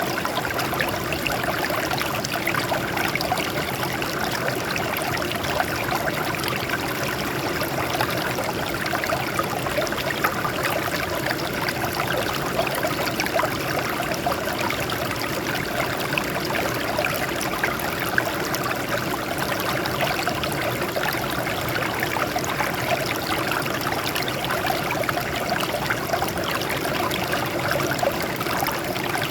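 Water flowing and trickling over rocks in a steady, unbroken babble of many small splashes.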